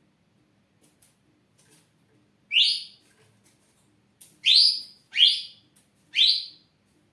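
Ashy drongo calling: four short, loud notes, each sweeping upward in pitch. The first comes about two and a half seconds in, and the other three follow close together in the second half.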